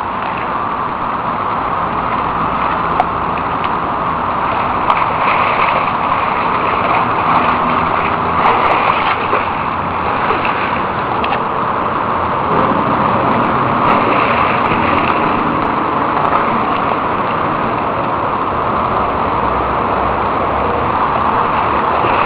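Steady rush of running water, an even noise that holds without a break.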